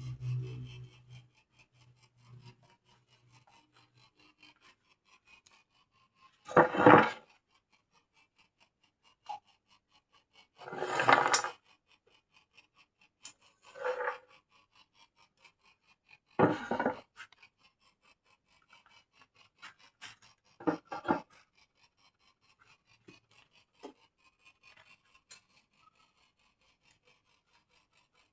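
Birdcage parts being smoothed by hand: about five separate abrasive rubbing strokes a few seconds apart, with quiet between them.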